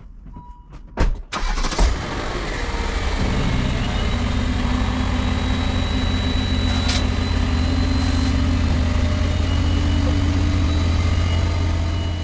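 Car engine started: a couple of clicks, then it catches and settles into a steady low idle.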